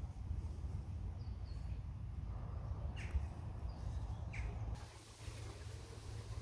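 Outdoor ambience: a steady low rumble with a few short bird chirps, two of them about three seconds in and a second and a half later.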